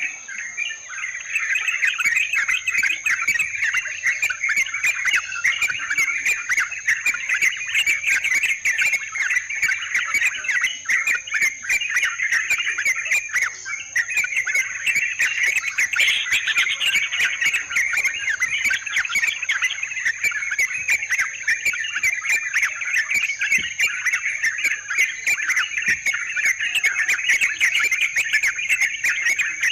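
Yellow-vented bulbuls (trucukan) chattering and calling nonstop in a dense, overlapping stream, with a steady thin high tone running underneath.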